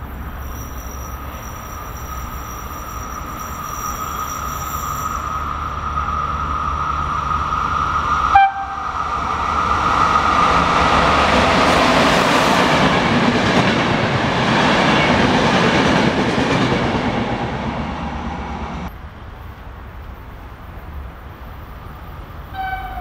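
Passenger train passing through a station at speed. A steady high whine grows as it approaches, then comes the loud rush and rattle of wheels and coaches for about eight seconds midway, which falls away suddenly about three quarters of the way through.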